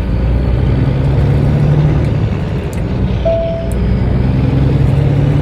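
Peterbilt 387 semi truck's diesel engine running as the truck drives on, heard from inside the cab; its steady note fades out briefly around the middle and then comes back. A short high chirp sounds about three seconds in.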